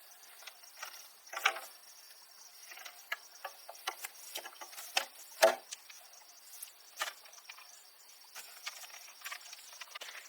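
Insects chirring steadily in the background, with scattered light knocks and scrapes at irregular intervals. The two loudest knocks come about one and a half and five and a half seconds in.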